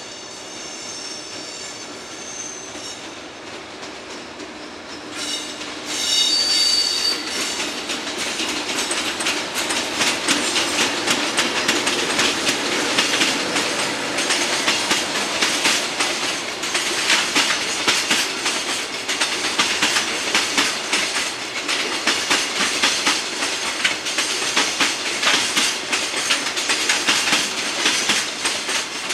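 EH500 electric locomotive and its container wagons rolling along the track. High-pitched squealing tones in the first few seconds, then about six seconds in the sound grows louder into a steady rapid clatter of wheels over rail joints.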